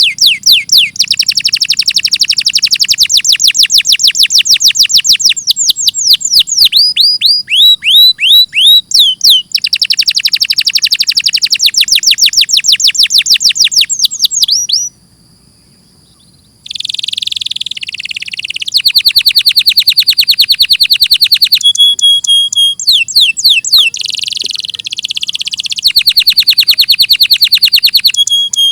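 Domestic canary singing loud, fast trills of rapidly repeated notes, some phrases made of quick down-sweeping whistles. There is a pause of about two seconds about halfway through.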